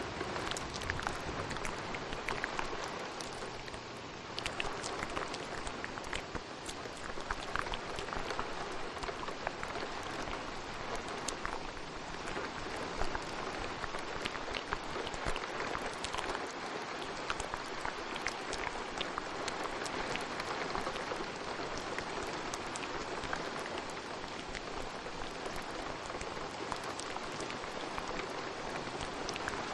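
Steady rain hiss dotted with many small, sharp wet clicks and pops: ASMR mouth sounds layered over a rain recording.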